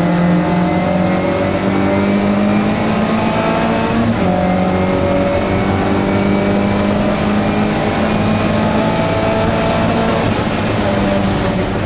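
1965 Morris Cooper S's 1293 cc A-series four-cylinder engine at full throttle, heard from inside the cockpit, its pitch climbing under acceleration. The pitch steps down sharply about four seconds in as the driver shifts up, then climbs again, and falls once more near the end.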